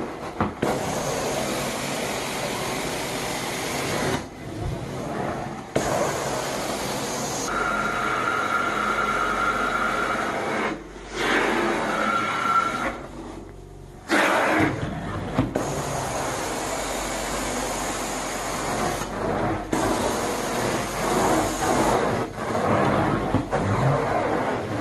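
Carpet-cleaning suction machine running as it is worked over carpet: a loud, steady rushing noise with a faint high whine, broken off by several brief pauses.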